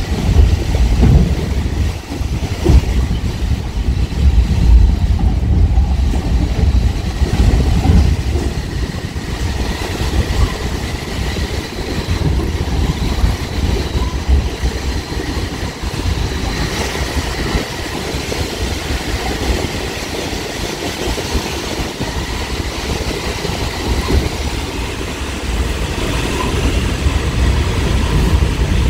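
Caltrain gallery cab car running along the track, heard from inside the cab: a loud, continuous low rumble and rattle of the car and wheels on the rails, choppier and louder in the first ten seconds, then steadier.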